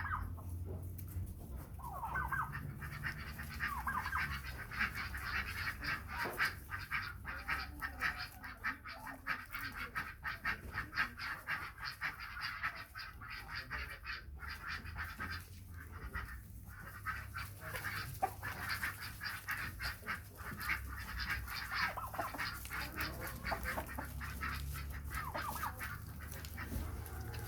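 A flock of domestic fowl calling continuously, many rapid overlapping calls with a few longer sweeping ones, over a steady low hum.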